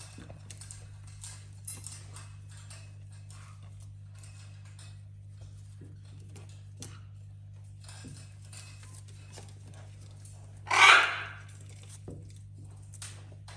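Pet parrots playing, with light clicks and taps, like beaks and claws on toys, over a steady low hum. One loud, harsh squawk comes about eleven seconds in.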